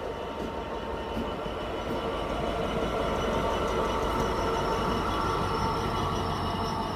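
Freightliner Class 66 diesel locomotive on the rear of a long freight train of hopper wagons passing at speed. A steady rumble of wheels on rail with a ringing whine on top, loudest about three to four seconds in as the locomotive goes by.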